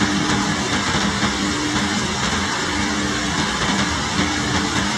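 Heavy rain falling steadily, with a low machine hum that comes and goes underneath.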